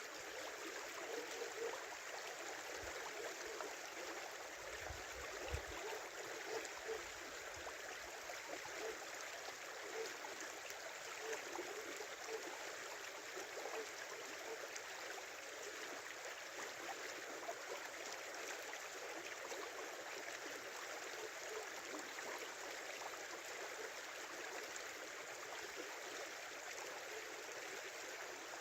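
A small river running: a steady rush of flowing water, with small gurgles and bubbling plops throughout.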